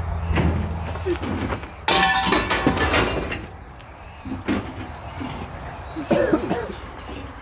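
Scrap metal car parts crashing down onto a tip pile: a loud metallic clatter with ringing about two seconds in, fading over about a second, followed by a few smaller knocks.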